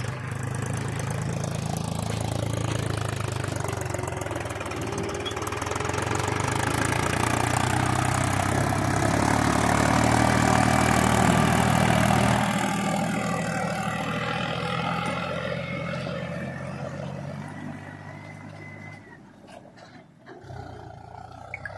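Heavy diesel engine running under load. It builds louder toward the middle, then drops back and eases off near the end.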